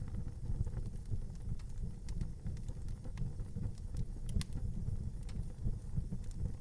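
Outdoor wood fire burning: a steady low rumble with scattered small crackles and pops, two sharper pops about four seconds in.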